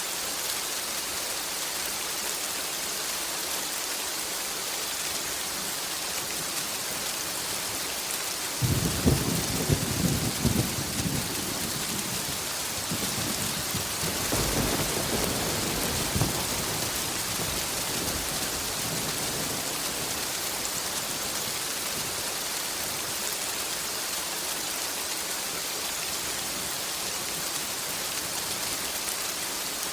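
Steady rain falling, with thunder breaking in: a sudden sharp crack and rumble about a third of the way in, then a second, longer rolling rumble a few seconds later.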